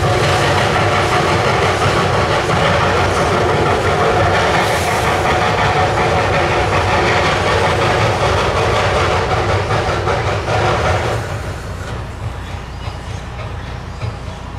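Two-foot-gauge Hudswell Clarke locomotive running loud and steady under load, the sound dropping away about eleven seconds in.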